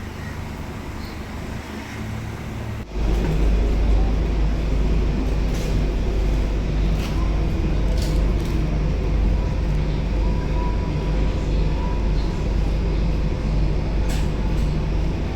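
Scania K270UB city bus heard from inside: the engine idles with a steady low hum, then about three seconds in a much louder, deeper rumble sets in suddenly as the bus runs, with scattered rattles from the body.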